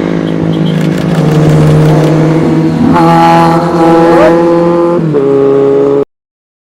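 Loud motorcycle engine running at held revs, its pitch stepping up twice and dropping once, then cut off abruptly.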